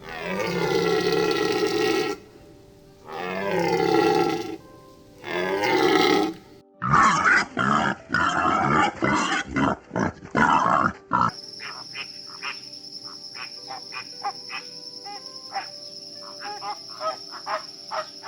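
A series of animal calls: three long calls that fall in pitch, then about four seconds of rough, noisy calls, then quieter irregular ticks and clicks under a steady high tone.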